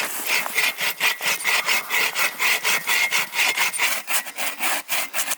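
Hand saw cutting through a log for firewood in quick, even back-and-forth strokes, about three a second. The cut is slow going.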